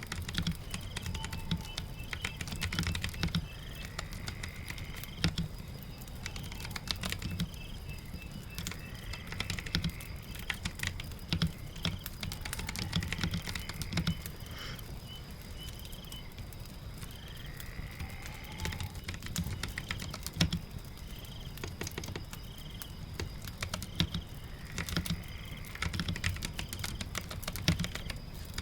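Computer keyboard typing in irregular bouts of quick key clicks, over a steady patter of rain.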